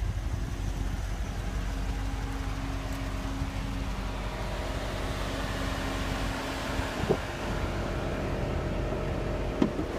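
2015 Dodge Challenger R/T's 5.7-litre Hemi V8 idling steadily.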